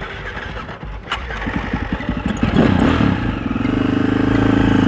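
Four-stroke dirt bike engine being started: a click, about a second of cranking pulses, then the engine catches with a brief rev and settles into a steady idle.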